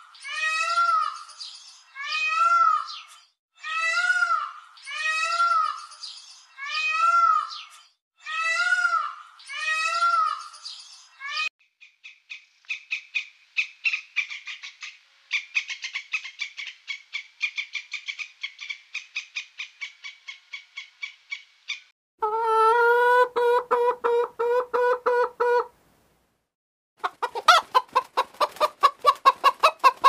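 A string of animal calls. First a peacock calls about nine times, a little over a second apart. Then a red squirrel chatters in a fast run of short clicks for about ten seconds, a pulsing pitched call follows for a few seconds, and hens cluck near the end.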